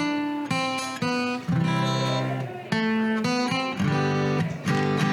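Acoustic guitar strumming chords, changing every half second or so.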